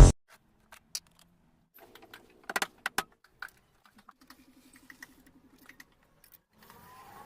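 Sparse clicks and taps of wooden pieces and tools being handled, with a few louder knocks about two and a half to three seconds in and a short low buzzing rattle about four seconds in.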